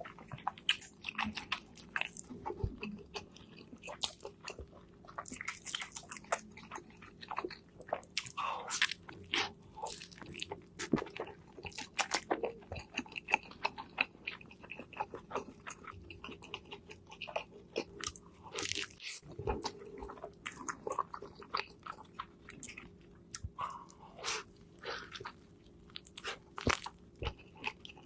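Close-miked ASMR eating of a burger meal: repeated bites and chewing, with many sharp, irregular crunches.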